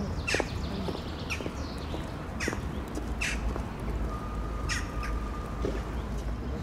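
A bird giving about five short, harsh calls spaced a second or so apart, over a low outdoor rumble.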